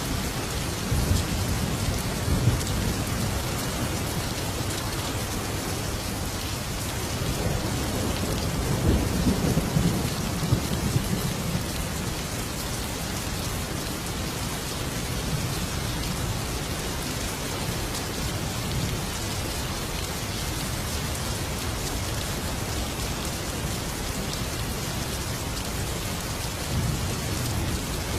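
Thunderstorm: steady rain with low rolls of thunder. The strongest rumble comes about a third of the way through, with shorter ones near the start and near the end.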